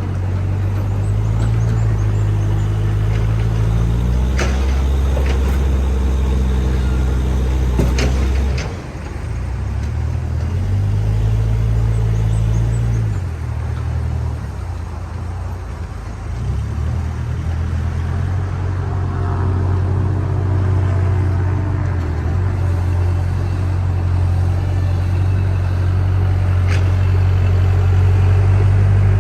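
Heavy diesel engine of a JCB backhoe loader running under work, its low note stepping up and down in speed several times. A few sharp knocks, one about eight seconds in and one near the end.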